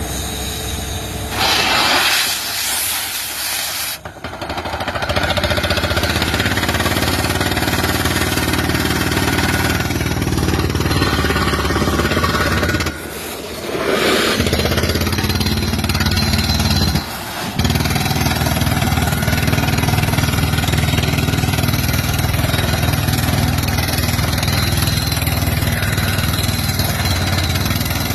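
An engine running steadily, with a few abrupt breaks where the sound cuts and resumes.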